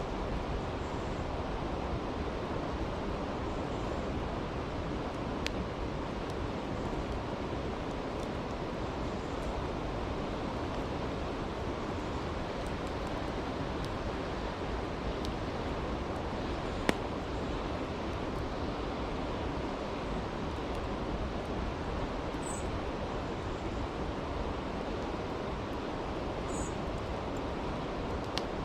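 Campfire crackling beside a rushing brook: steady water noise throughout, with a few sharp pops from the fire, the loudest about 17 seconds in.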